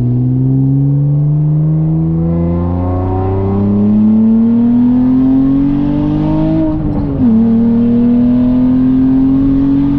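Honda Accord J-series V6 accelerating hard, its engine note climbing steadily in pitch. It drops sharply with an upshift about seven seconds in, then climbs again.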